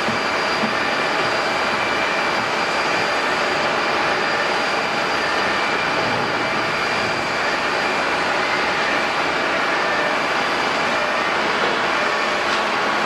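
Jet airliner engines running steadily: a dense rush of noise with several steady high whining tones held over it.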